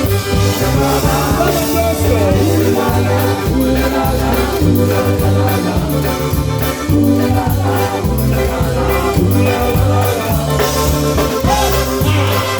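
Live polka band playing an upbeat dance song, with a steady repeating bass line under the melody.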